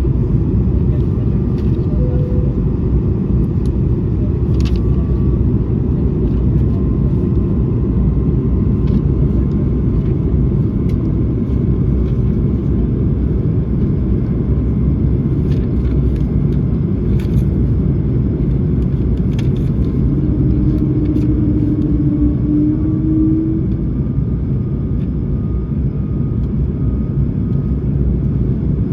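Steady low rumble of engine and airflow noise inside the cabin of an Airbus A220-300 airliner, with a few faint clicks and a brief low tone about twenty seconds in.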